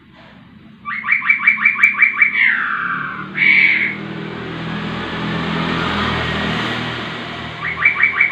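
Caged poksay rowo calling. About a second in comes a quick run of about eight repeated notes, ending in a downward slur, then a loud short call and a long harsh, noisy call. The quick run of notes starts again near the end.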